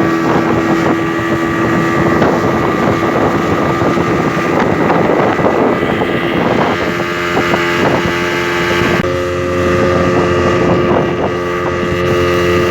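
Speedboat engine running at speed, with wind buffeting the microphone and water rushing past the hull. The engine note shifts slightly about six seconds in and again about nine seconds in.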